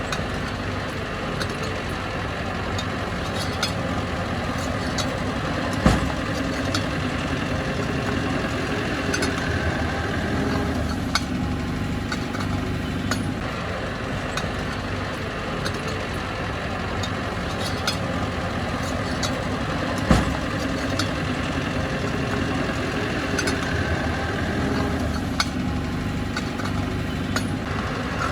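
Bulldozer's diesel engine running steadily, with light metallic clicking throughout and two sharp knocks, about six seconds in and again near twenty seconds.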